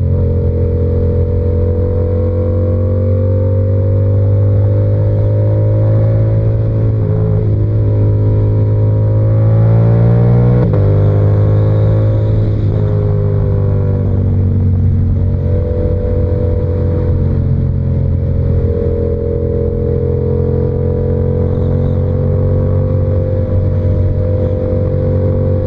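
Yamaha R7's 689 cc parallel-twin engine, through an SC-Project exhaust, running under way at cruising revs. The revs rise and fall gently, with a clear drop in pitch about ten seconds in.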